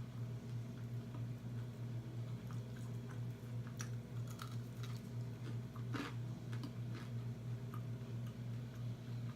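Close-up mouth sounds of a person chewing and eating, with small wet clicks and one sharper click about six seconds in, over a steady low hum.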